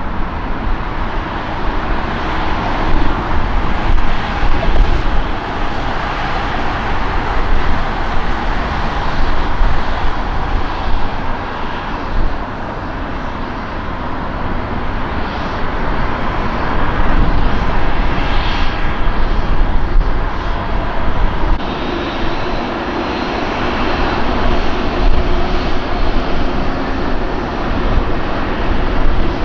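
Jet airliner's engines, a loud steady rush with a faint whine over it, swelling and easing in loudness.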